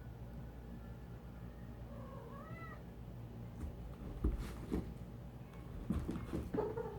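Domestic cat meowing: a short meow about two seconds in and another near the end, with several sharp knocks in between.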